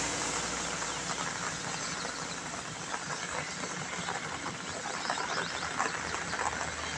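Gentle rain falling on a wet asphalt road, a steady hiss with many small drop ticks. The tyre hiss of a car that has just passed on the wet road fades away in the first second.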